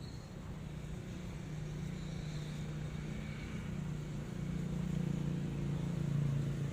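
A low, steady motor hum that grows gradually louder.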